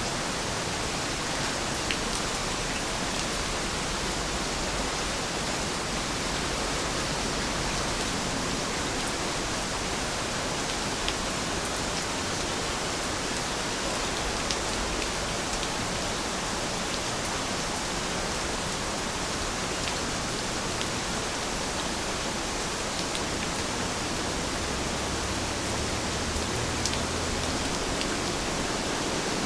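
Heavy rain falling in a steady hiss, with scattered drops ticking.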